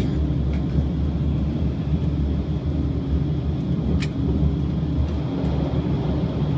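Running noise inside the passenger car of a limited express electric train travelling at speed: a steady low rumble, with one short sharp click about four seconds in.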